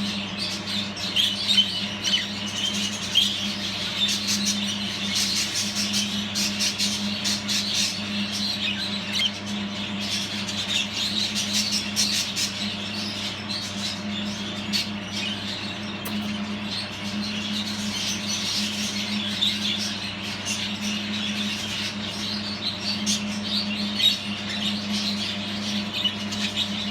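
Budgerigars chattering and warbling without a break, full of quick chirps and clicks, over a steady low hum.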